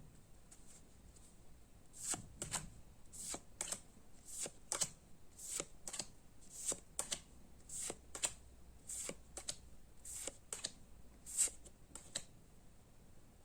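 Pokémon trading cards being slid off one another one at a time, a short crisp swish of card on card about twice a second, starting about two seconds in and stopping near the end.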